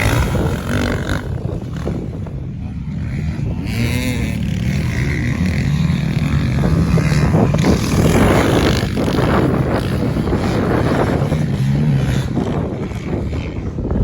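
Motocross dirt bike engines revving, the pitch rising and falling as the throttle opens and closes.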